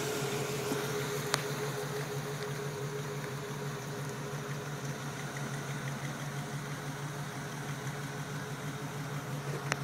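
A 350 Chevy V8 idling steadily, the owner saying its carburetor needs adjusting. A single sharp click sounds about a second and a half in.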